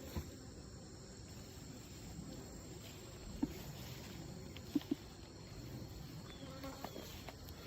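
Honeybees buzzing around an opened hive, a faint steady drone, with a few light taps about three and a half and five seconds in.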